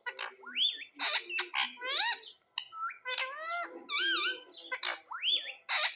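Indian ringneck parakeet calling: harsh squawks mixed with quick upswept whistled notes, several rising glides in a row.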